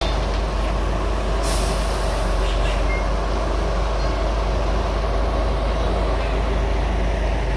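Concrete mixer truck's diesel engine running steadily with a low rumble, with a short hiss of air about a second and a half in.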